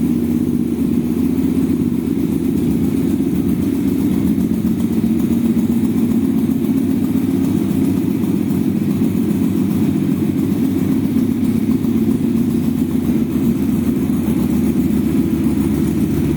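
Morbidelli motorcycle engine idling steadily through its exhaust, an even low note with no revving.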